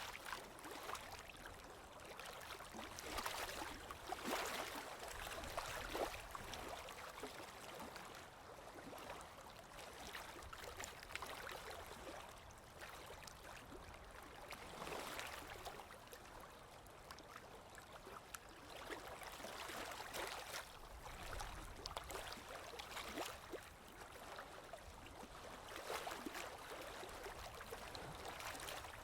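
Water flowing and gurgling, with many small splashes and irregular louder swells every few seconds.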